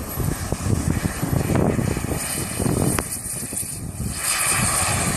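Small turbine engine of a radio-controlled model jet whining and hissing at high power on its takeoff roll, growing clearly louder about four seconds in, over an irregular low rumble.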